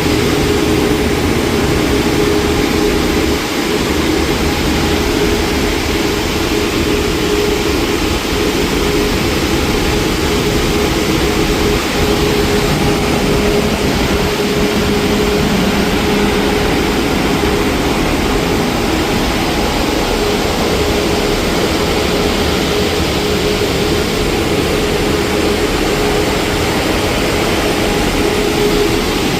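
Mark VII Aquajet XT touchless car wash running over the car, heard from inside the cabin: a loud, steady rushing noise with a constant hum underneath.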